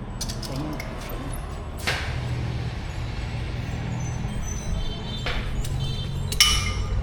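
Hammer blows on metal at an anvil: a few separate ringing strikes a few seconds apart, the strongest near the end, over a steady low hum.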